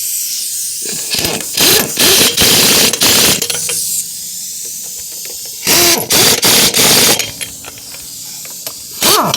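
Impact wrench run in several short bursts, in two groups, tightening a wheel's lug nuts, over a steady hiss.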